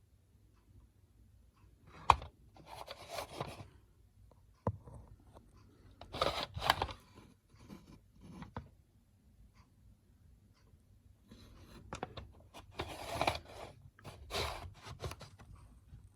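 Intermittent handling noise: a sharp click about two seconds in, then several short bouts of scraping and rustling with scattered small clicks.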